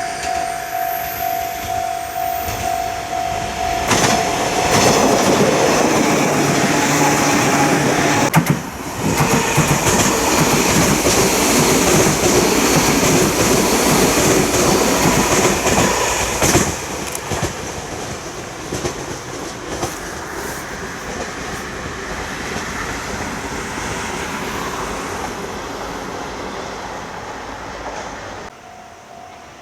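An electric passenger train passes close by. It swells about four seconds in, with wheels clattering over the rail joints for some ten seconds, then fades away as it recedes.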